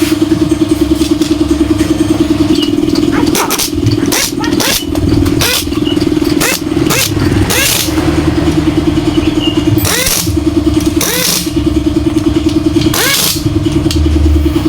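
Motorcycle engine running with a steady pulsing note, given several short revs that rise in pitch.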